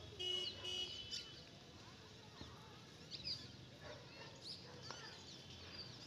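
Birds chirping, faint: two short, ringing calls just after the start, then many brief high chirps scattered throughout.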